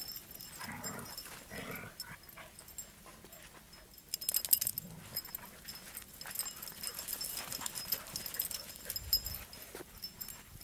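Dogs playing and scuffling on dirt. A few short dog vocal sounds come in the first two seconds, and a burst of quick scuffling clicks follows about four seconds in.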